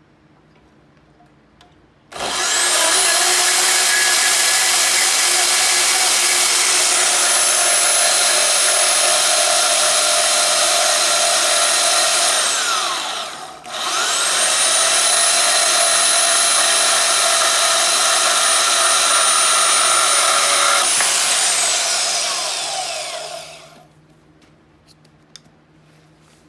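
High-speed power cutting tool cutting through mild steel flat stock to cut off a piece. Its motor whines up to speed about two seconds in and runs steadily. It drops off briefly and is restarted about halfway through, then winds down near the end.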